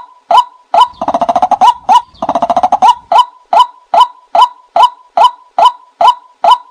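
A bird calling: a short note repeated evenly about two and a half times a second, with two longer, fast rattling calls over it about a second and two seconds in.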